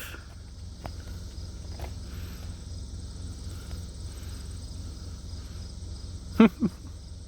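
Crickets chirping steadily in a high, evenly pulsing drone over a low steady rumble, with one short voice-like sound about six and a half seconds in.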